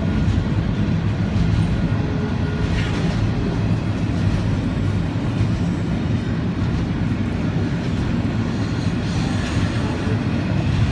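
Double-stack container train's well cars rolling past, a steady noise of steel wheels on rail.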